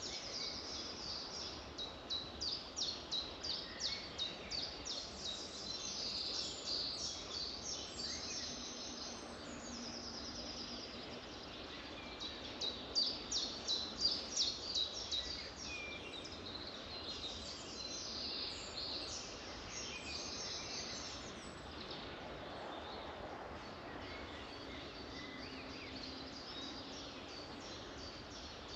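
Several songbirds singing and chirping over a steady background hiss. One bird twice sings a loud run of rapidly repeated notes, about three a second, early and again around halfway; the calling thins out in the last third.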